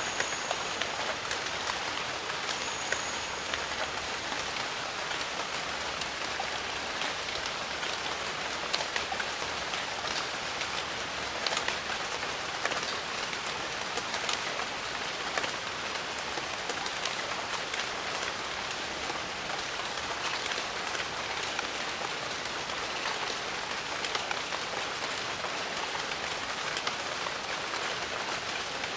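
Steady jungle rain: an even hiss with many individual drops ticking sharply.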